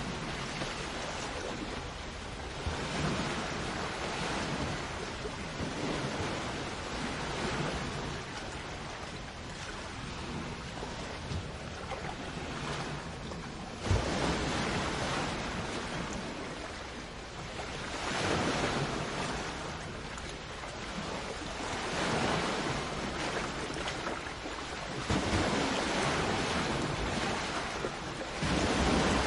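Sea waves breaking on a shore, the surf swelling and washing back every few seconds, with a sharper break about 14 seconds in.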